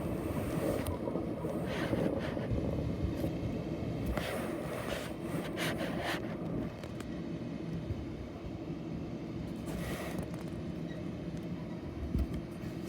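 A vehicle running with a steady low rumble, broken by a few short hissy rattles.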